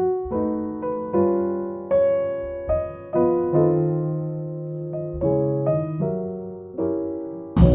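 Background music: solo piano playing a slow melody of single struck notes and chords, each note fading after it is struck. A different track with strummed guitar and bass cuts in right at the end.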